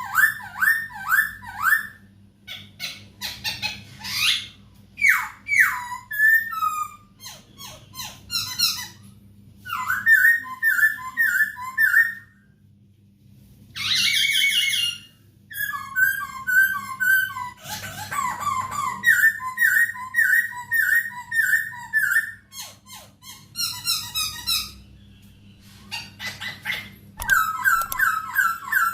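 Poksay hongkong laughingthrush singing: loud, varied phrases of whistled notes repeated in quick runs, mixed with higher chattering, with a couple of brief pauses. A faint steady hum lies underneath.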